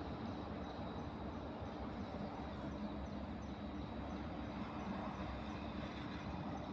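KTMB diesel-hauled train running, a steady low rumble with a faint constant hum.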